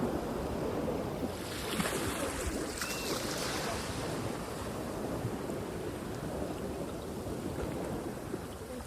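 Sea surf washing in, with wind buffeting the microphone; a hissing swell of breaking water rises and fades between about one and three and a half seconds in.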